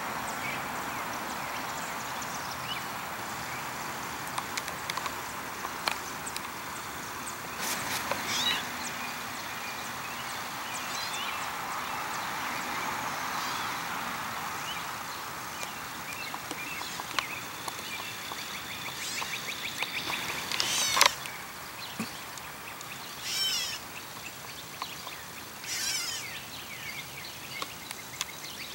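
Birds calling now and then over a steady background hiss: short, high chirping calls a few seconds apart, the clearest near the end.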